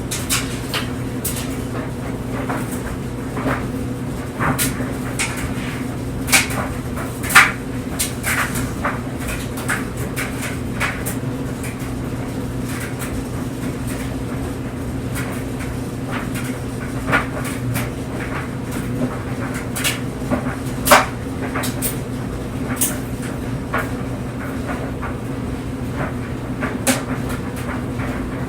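Clothes dryer running, its drum turning with a steady hum while the tumbling load makes irregular clicks and knocks against the drum, two louder knocks about 7 and 21 seconds in.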